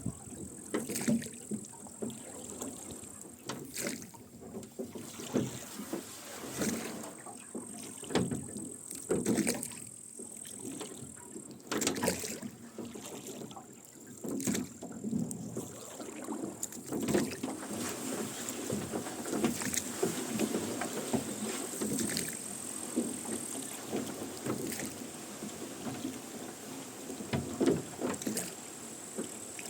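Rowboat being rowed: oars splashing and oarlocks creaking with each stroke, about every two to three seconds.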